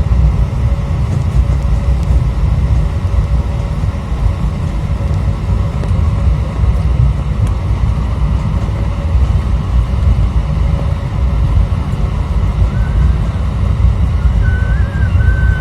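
Airbus A321 cabin noise heard from a seat: a loud, steady low rumble of the engines and airflow through the fuselage. A faint wavering whistle comes in near the end.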